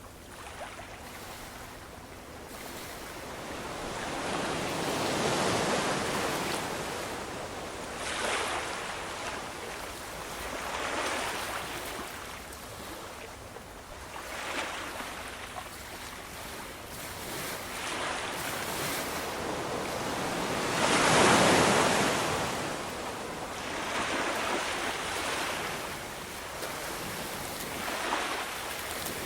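Ocean surf, waves breaking and washing in swells every few seconds with a steady hiss between them; the biggest surge comes about two-thirds of the way through.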